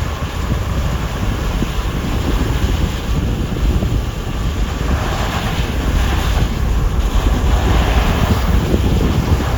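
Strong gusty wind on the microphone: a deep rumble with hiss that grows stronger about halfway through.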